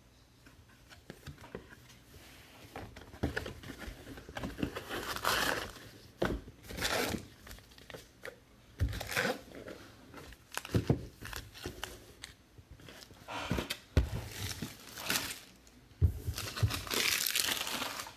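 Plastic and cardboard packaging crinkling and tearing in irregular bursts, with a few sharp snaps, as a box or pack of trading cards is unwrapped. The longest stretch of rustling comes near the end.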